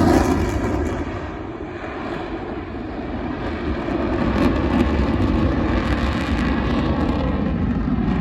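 Jet noise from an F-35 Lightning II's single F135 turbofan as the jet passes. It fades over the first second or two after a falling pitch, then a low rumble builds again and holds.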